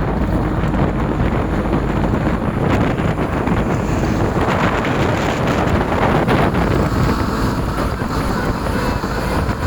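Strong wind buffeting the microphone: a steady, loud rushing and rumbling noise with no distinct events.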